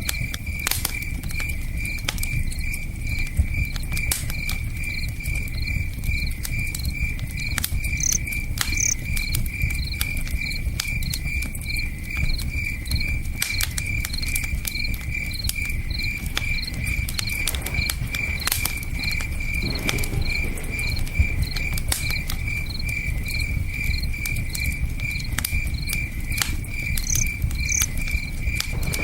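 Crickets chirping steadily in an even rhythm of about two chirps a second, over the scattered sharp pops and crackles of a campfire and a low steady rush of river water.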